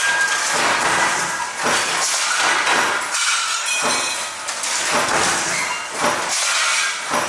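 Metalworking machinery in a hinge factory running, with repeated metallic clanks and clinks about one or two a second over a continuous clatter.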